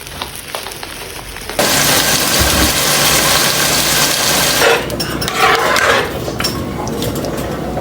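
Dishes and glassware clinking and knocking over a steady rushing noise that starts suddenly about a second and a half in.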